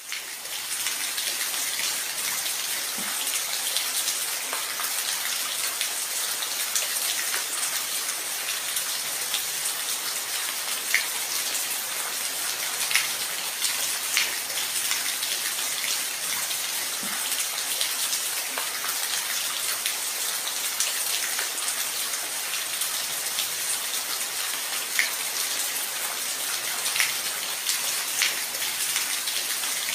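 Steady rain falling, an even hiss of drops with scattered sharper, close drips ticking through it.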